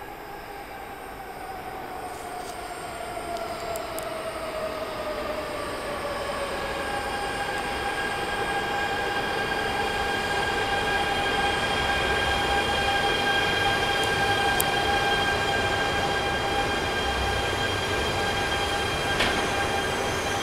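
E926 East-i Shinkansen inspection train pulling slowly into the platform, getting louder as it nears. Its electric whine falls in pitch over the first several seconds as it slows, then settles into a steady high whine of several tones as the cars roll past.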